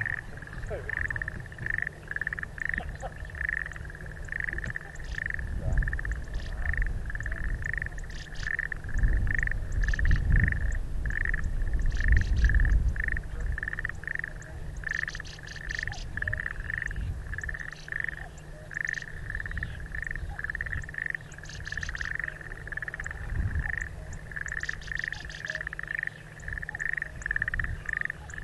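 Wetland ambience: a steady high call pulsing about twice a second throughout, with a chestnut-eared bunting's short, fast chattering song phrases several times higher up. Wind rumbles on the microphone around the middle.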